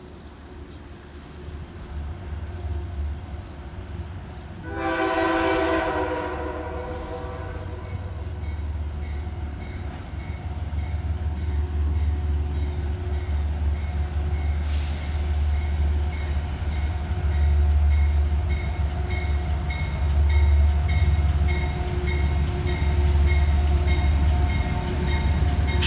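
Amtrak P32AC-DM locomotive approaching on its diesel engine, sounding one horn blast of a couple of seconds about five seconds in. Its low rumble then grows steadily louder as it nears, with a high ding repeating about twice a second from the middle on.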